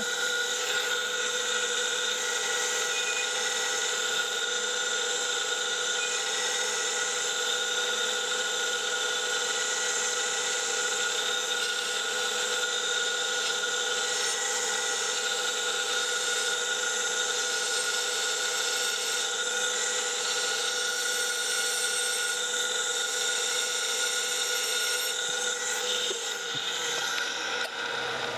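SGS-612 surface grinder's wheel spinning at speed while a wheel dresser is passed across it, dressing the wheel for the first time: a steady whine with a high hiss, easing off near the end.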